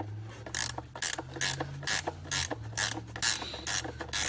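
Socket ratchet clicking in a steady rhythm, about three clicks a second, as the oil pan's drain plug is run back in, over a low steady hum.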